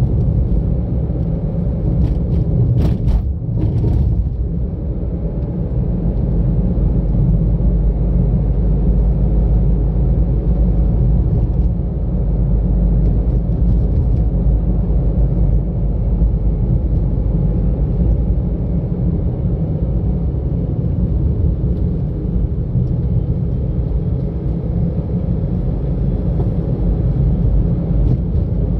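Car driving along a road, recorded from inside the car: a steady low rumble of engine and tyre noise, with a few brief sharp clicks about three seconds in.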